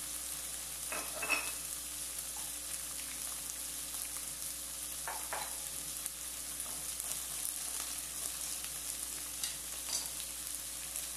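Sliced onion and green bell pepper sautéing in a nonstick frying pan, a steady sizzle, with a few brief scrapes of a utensil stirring them about a second in, around the middle and near the end.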